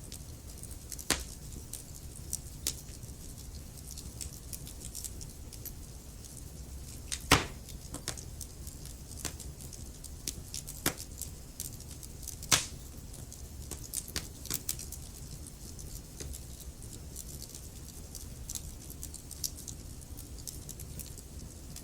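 Wood logs burning in a fireplace, crackling steadily with many small snaps over a low steady rumble, and a few louder pops, the sharpest about 7 and 12 seconds in.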